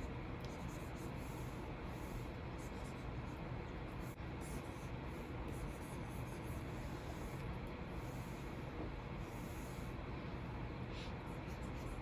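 Stylus strokes on a Wacom Cintiq 24 Pro pen display: a steady, scratchy rubbing of the pen nib across the screen's surface.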